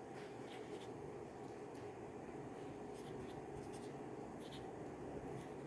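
Marker writing on paper: faint, short scratches of the tip against the paper, coming irregularly a few times.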